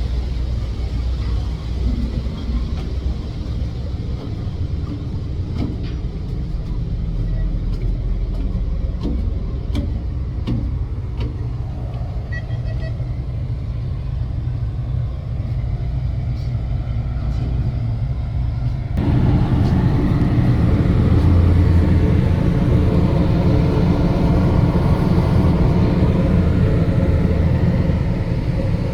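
Low, steady engine rumble. About two-thirds of the way through it becomes abruptly louder and fuller.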